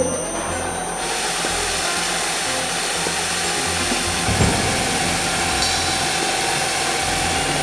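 Tube-drilling machine at work on a metal tube, a steady hiss with a fixed whine that starts about a second in.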